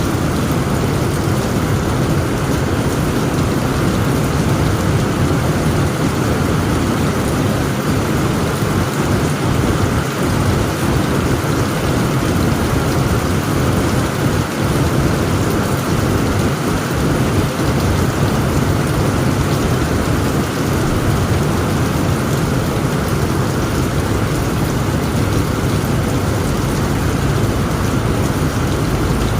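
Heavy rain falling steadily on a tent roof, with a continuous low rumble of thunder underneath.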